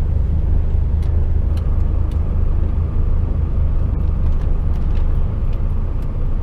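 Articulated container lorry's diesel engine and road noise heard inside the cab: a steady low drone, with a faint thin whine coming in about a second and a half in.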